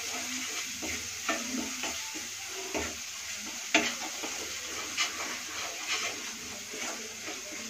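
Tomato and onion masala sizzling in hot oil in a non-stick wok while it is stirred with a wooden spatula. Over the steady sizzle come several sharper scrapes and knocks of the spatula against the pan, the loudest about four seconds in.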